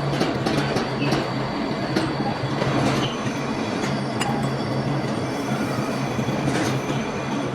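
Metal lathe running: a steady motor hum under a continuous scraping noise, with faint high-pitched squealing tones and a few light clicks.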